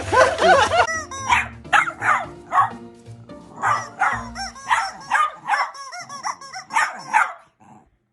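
A dog barking over and over, roughly two barks a second, with background music under it; the barking stops shortly before the end.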